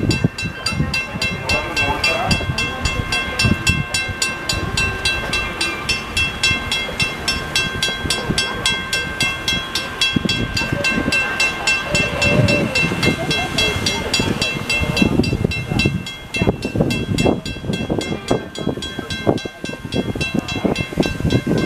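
A 2-ft-gauge steam train's cars rolling slowly along the rails, with a steady high-pitched tone throughout. Rumbling and sharp clanks grow more frequent in the second half.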